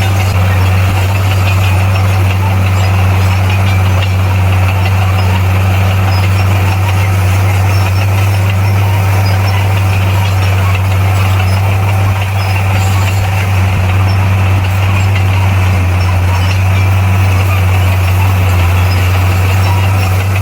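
Komatsu D58P bulldozer's diesel engine running at a steady speed, a loud constant low hum with a mechanical rattle over it.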